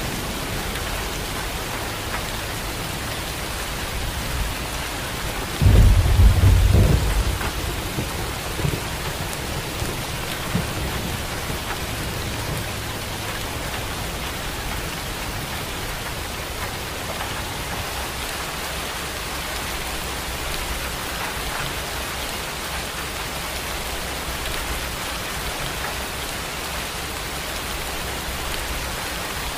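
Steady rain falling, with a clap of thunder about six seconds in whose low rumble dies away over the next several seconds.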